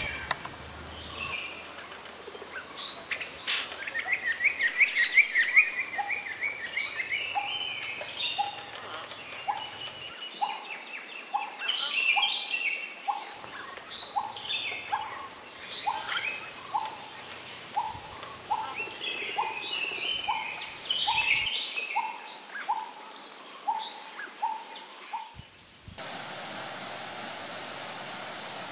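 Several birds chirping and singing, with a quick trill a few seconds in and a steady run of short, evenly spaced notes about one and a half a second through the middle. About 26 s in this cuts off suddenly to the steady rush of a waterfall.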